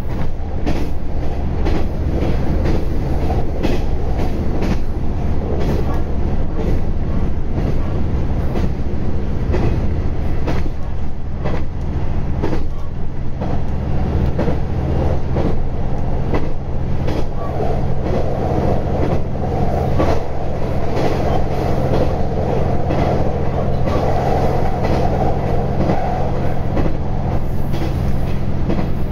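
KiHa 121 series diesel railcar running at speed, heard from inside the cab: a steady diesel engine and running-gear rumble with irregular clicks of the wheels passing over rail joints. A harsher mid-range noise rises for about ten seconds past the middle.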